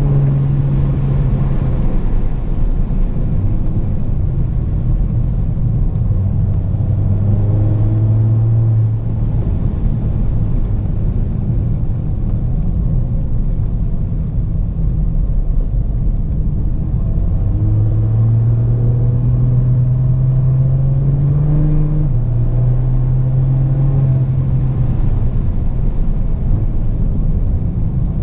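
Audi A7 3.0 TDI V6 diesel with a straight pipe and no muffler, running with a steady exhaust rumble. Its note rises and falls gently a few times as the revs change.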